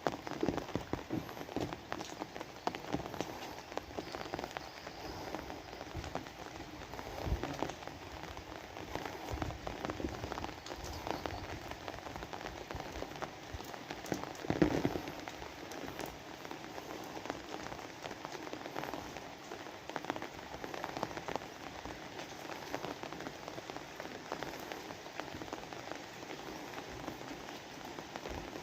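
Steady rain falling, with many separate drops and drips heard through it and one louder hit about halfway through.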